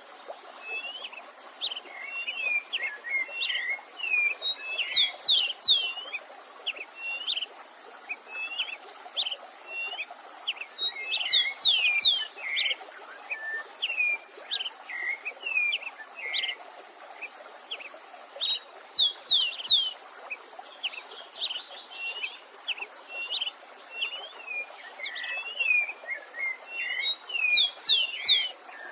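Several songbirds singing over the steady rush of a stream. One bird repeats a loud phrase of quick sweeping whistles four times, about every seven seconds, with softer short chirps from other birds in between.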